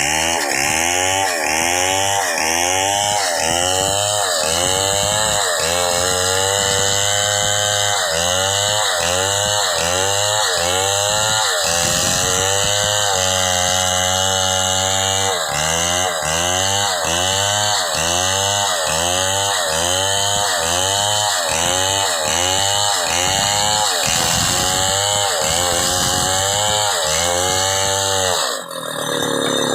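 Chainsaw engine revved up and let back down over and over in a quick, even rhythm, about one and a half revs a second. About halfway it holds steady at lower speed for a few seconds, then the revving resumes, and it cuts off suddenly near the end.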